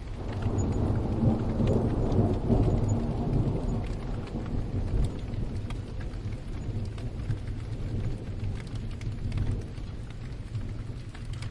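A roll of thunder over steady rain. The low rumble swells right at the start, is loudest about one to three seconds in, and slowly dies away, while the rain hisses and patters on underneath.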